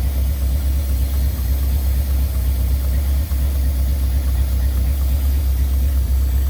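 1963 Mercury's engine idling steadily on a freshly rebuilt Motorcraft 2100 two-barrel carburetor, with a deep, even rumble. The idle is set a little low, and the worn-out exhaust system leaks.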